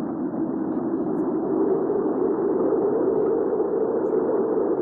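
Hurricane wind ambience: a steady, deep rushing of wind that swells slightly about halfway through.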